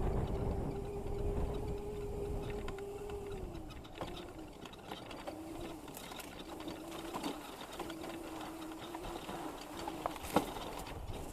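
Razor MX650 electric dirt bike's motor and chain drive whining steadily, easing off about three and a half seconds in, then coming back on in short pulls over a low rumble and rattles. A sharp knock near the end.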